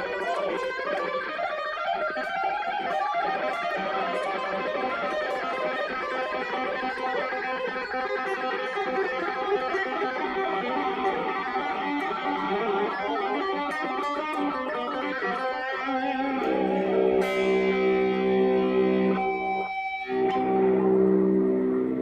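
Electric guitar playing a fast, busy passage, then long held notes ringing out in the last few seconds.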